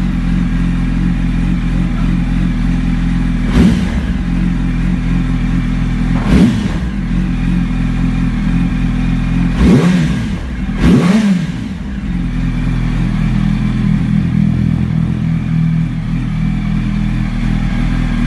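Yamaha R1's inline-four engine idling just after a cold start, blipped four times with short, sharp revs, the last two about a second apart, then settling back to a steady idle.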